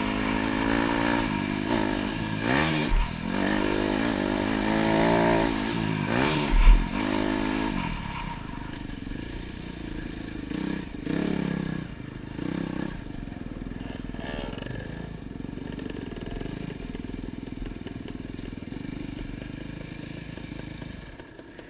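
Motocross dirt bike engine revving up and down on the throttle, with a sharp thump about seven seconds in; after about eight seconds it drops to a quieter, steady low running like a bike rolling off the throttle toward idle.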